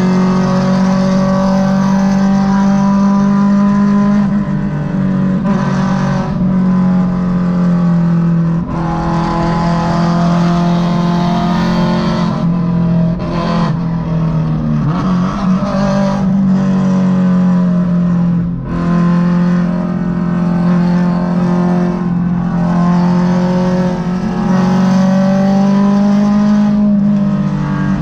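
Honda Civic EK4's naturally aspirated VTEC four-cylinder pulling hard at sustained highway speed, heard from inside the cabin. Its steady engine drone wavers slightly in pitch over road and wind noise, with several brief dips where the throttle eases.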